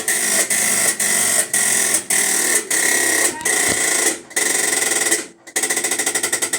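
Electrolux LTE12 washing machine making its strange noise in the spin cycle: a loud mechanical rattle that pulses about twice a second, then, near the end, a much faster rattle.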